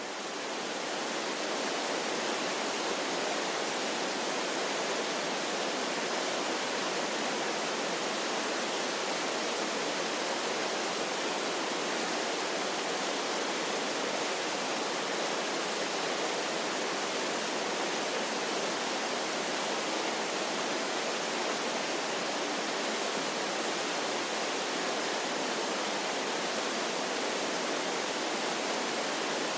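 Waterfall: a steady rush of falling water, reaching full level about a second in and then holding even.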